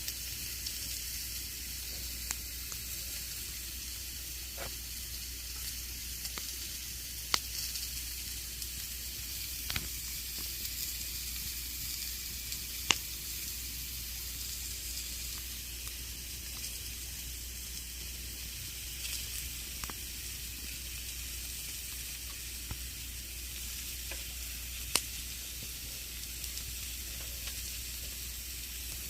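Campfire burning: a steady hiss with scattered crackles and pops, a few of them sharp and loud.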